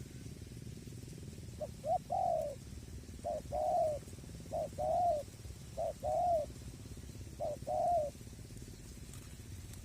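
Spotted dove (tekukur) cooing: five phrases, each one or two short notes and then a longer arched coo, repeated roughly every second and a half and ending about two seconds before the close.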